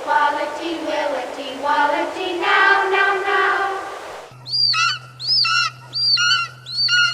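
Children singing together in a chorus. About four seconds in, it cuts to a single bird-like call, repeated identically about every two-thirds of a second over a steady low hum.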